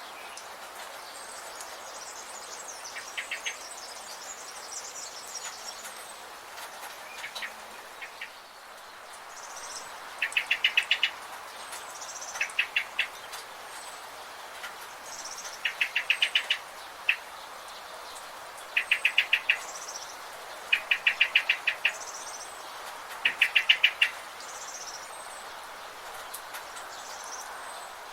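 Birds calling: one repeats a short, rapid stuttering trill every two to three seconds, louder from about ten seconds in, while thin high chirps repeat above it over a steady background hiss.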